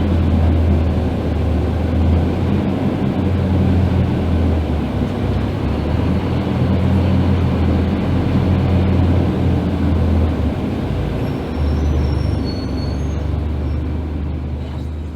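Scania K310IB bus's diesel engine, a 9-litre five-cylinder, running steadily under load on the move. Its note drops briefly twice, about a third of the way in and again past the middle.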